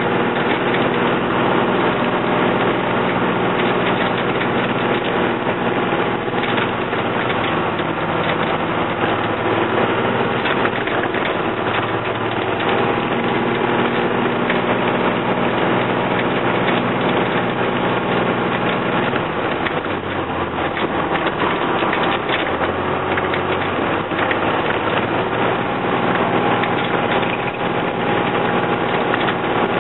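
1997 Ford B800 school bus's 5.9-litre Cummins turbo diesel working hard at full throttle up a hill, heard from the driver's seat. The engine note holds steady, with its pitch shifting a few times along the way.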